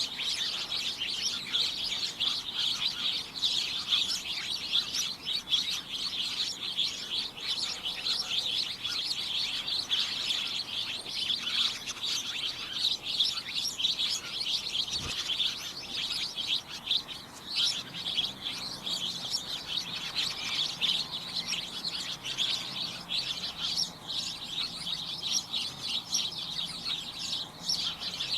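A flock of small birds chirping without pause: a dense, cacophonous chatter of many short, high chirps overlapping one another.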